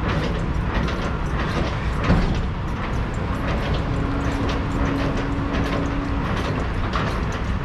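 A semi-trailer's landing gear being cranked down by hand: a stiff, tight crank turning with repeated small clicks and knocks, over the low rumble of an idling truck. A thin steady hum sounds for about three seconds in the middle.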